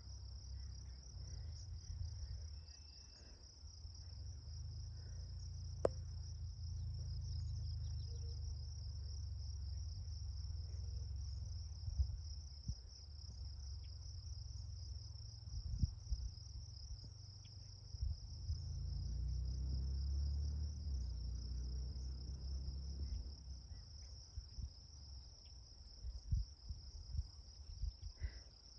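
Crickets chirring in a steady, high-pitched, unbroken chorus, with an uneven low rumble underneath and a few light knocks.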